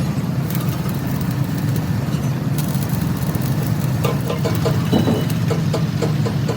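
An engine running steadily, with a series of short taps or clicks starting about four seconds in.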